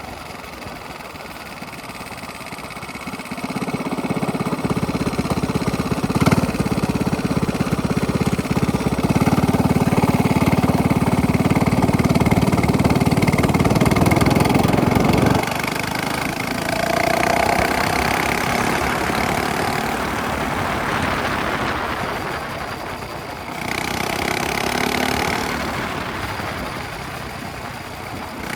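Minibike engine running through a straight-pipe exhaust while riding. It builds up about three seconds in and holds loud until about halfway, then drops off suddenly as the throttle is released and keeps running at lower revs with a couple of smaller surges.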